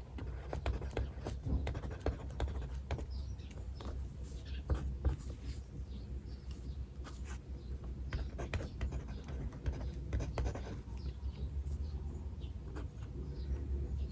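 Writing on paper: irregular short scratching strokes of a pen or pencil tip, over a steady low hum, with faint bird chirps in the background.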